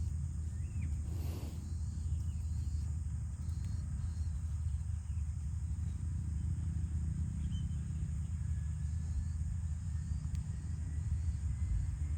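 Outdoor rural ambience: a steady low rumble with a few faint, short high chirps scattered through it. No cow is mooing.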